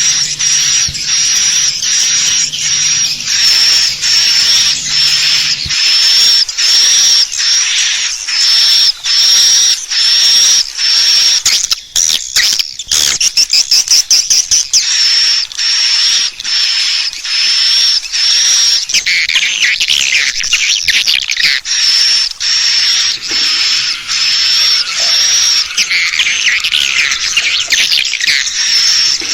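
Swiftlet call recording of the kind played to lure swiftlets into a nest house: a high chirping twitter repeating in a steady loop, with a fast run of clicks about halfway through.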